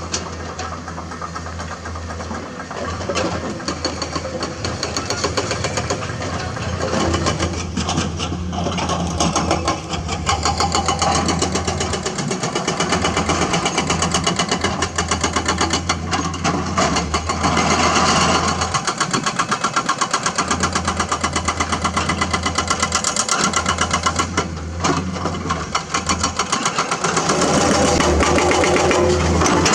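Komatsu hydraulic excavator's diesel engine running, its rapid firing pulse swelling and easing several times as the machine works under load.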